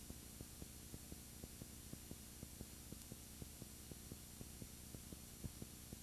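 Faint hum and hiss with a rapid, regular low ticking, about four to five ticks a second: no live sound from the scene, only the noise of a camera whose audio has failed.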